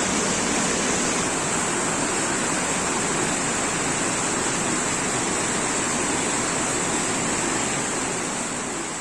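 Heavy rain pouring down steadily, a dense, even hiss, which begins to fade out near the end.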